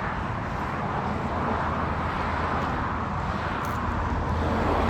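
Steady outdoor background noise with a low hum underneath, like distant road traffic.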